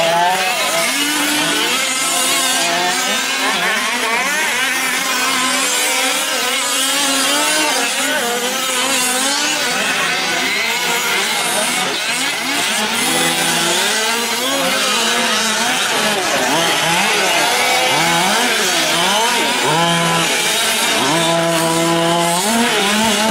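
Several 1/5-scale gas RC trucks racing, their small two-stroke engines revving up and down together in overlapping rising and falling whines.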